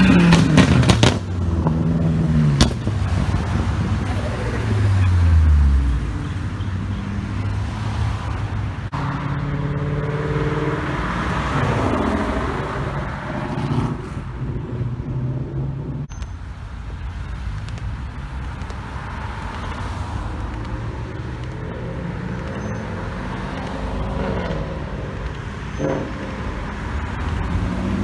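Cars driving past one after another as they pull away, engines accelerating and then falling in pitch as each goes by, with steady traffic noise between them and another engine building near the end.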